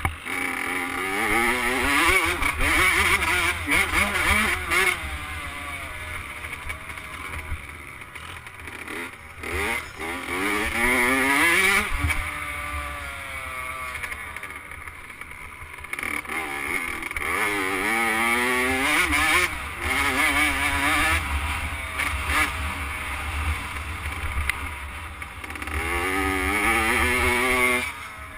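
Motocross bike engine revving up through the gears and backing off, in several surges as the bike accelerates out of corners and slows again, with a low rumble underneath.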